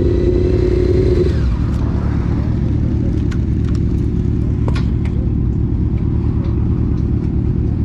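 Honda CBR600 F4 inline-four engine held at a steady high pitch, then the throttle closes a little over a second in and the tone falls away into a low rumble as the bike slows.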